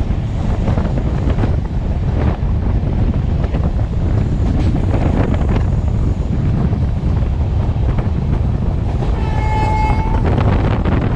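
Passenger train running at speed, heard from on board: a steady rumble and rattle of the coach on the track, with a train horn sounding once for about a second near the end.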